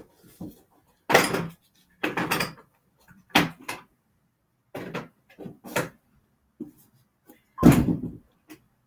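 Irregular knocks and clatters of objects being handled, about eight in all, the loudest and longest near the end.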